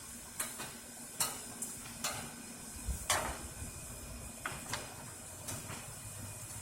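Scattered metallic clinks and knocks, about seven over several seconds with the loudest about three seconds in, as tools and metal parts are handled, over a faint steady hum.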